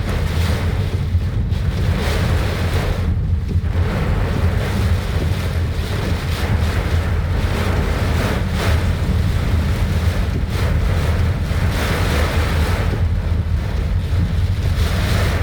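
Heavy rain pouring in strong wind, with gusts buffeting the microphone as a steady deep rumble and the rain's hiss swelling and easing.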